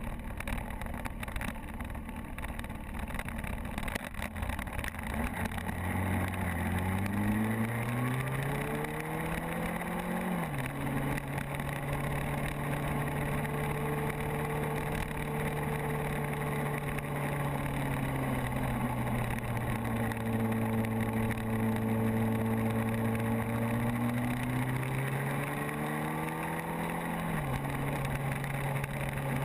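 Motorcycle engine under way, with wind rushing over the microphone. The engine note climbs under acceleration and drops sharply at an upshift about ten seconds in, holds steady, eases off, then climbs again and shifts up once more near the end.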